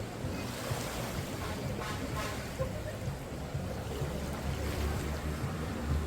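Waves washing on a beach, with wind rumbling on the microphone.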